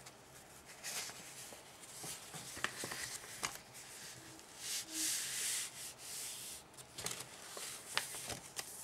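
Paper being folded by hand: fingers slide over the sheet and run along a crease, making a series of soft rubbing swishes with a few light ticks. The longest swish comes about halfway through.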